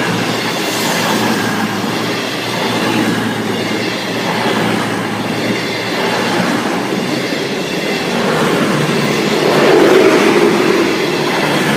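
Class 221 diesel-electric multiple unit running over the level crossing, a steady rumble of wheels on rail that grows a little louder near the end.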